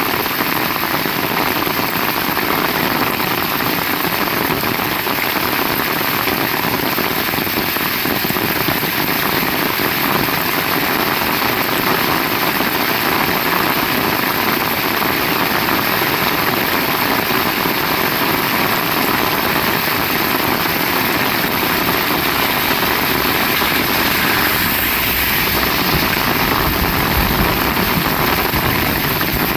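Heavy rain pouring steadily, with a low rumble coming in about five seconds before the end.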